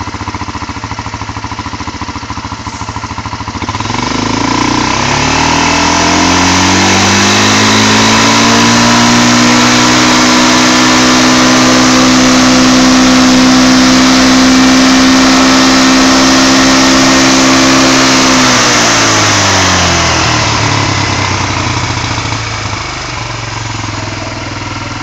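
ATV engine fitted with a balance shaft, idling, then revved up about four seconds in, held at high revs for about ten seconds and let back down to idle near the end.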